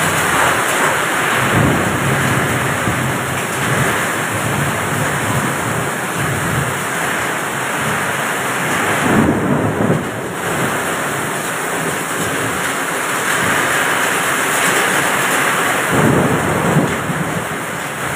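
Strong wind and heavy rain in a storm: a loud, steady noise of driving rain and wind, swelling into deeper rumbling gusts about a second and a half in, around nine to ten seconds, and again near sixteen seconds.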